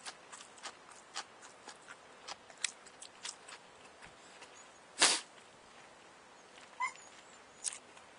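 A person chewing food close to the microphone: soft wet clicks and lip smacks. A single much louder, sharp sound comes about five seconds in.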